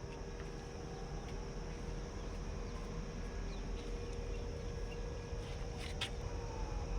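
Outdoor background ambience: a steady low rumble and a steady hum, with a few faint chirps and one brief sharp click about six seconds in.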